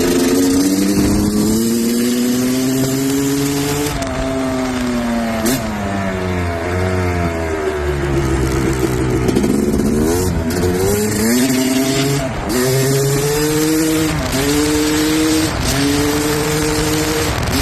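Engine running just after a cold start, its pitch rising and falling repeatedly as it is revved, with a few brief ticks along the way.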